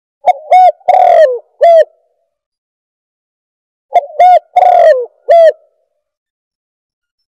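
Spotted dove cooing from a bird-caller recording: two phrases about three and a half seconds apart, each of four coos, the third one longest and dropping in pitch at its end. The notes are very loud.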